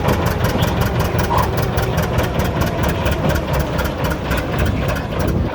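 John Deere 820 diesel tractor engine running loud and steady, with an even, rapid exhaust beat.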